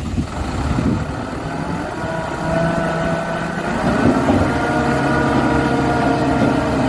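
Dump truck running with a steady motor hum made of several tones, which rise a little about four seconds in.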